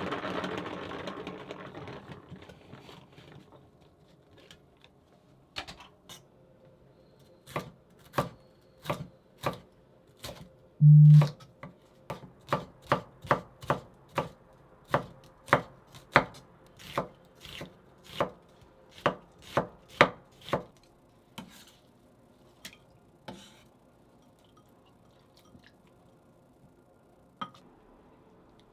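Kitchen knife chopping on a cutting board: single cuts at first, then a steady run of about two cuts a second, then a few last strokes. One much heavier thump about 11 seconds in is the loudest sound. A steady noise left over from a running appliance fades out in the first two seconds.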